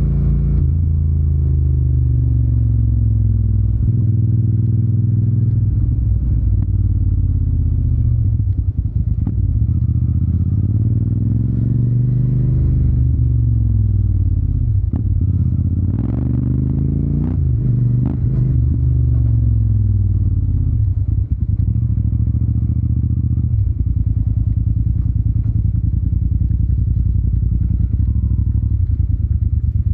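Yamaha TDM 900's parallel-twin engine through an Akrapovic exhaust, its note repeatedly rising and falling as the throttle is opened and closed, with a few short clicks in the middle. About three-quarters of the way through it settles to a steady low note.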